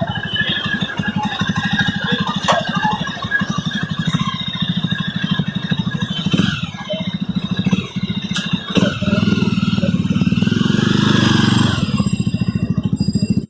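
Jawa Standard's 293cc single-cylinder, liquid-cooled engine running under way, its firing pulses rapid and even. The engine note drops out briefly about six and nine seconds in, then holds louder and steadier before cutting off suddenly at the end.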